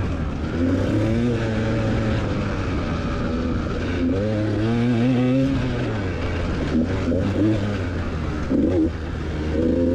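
Enduro motorcycle engine running under way off-road, its revs rising and falling over and over as the throttle is worked.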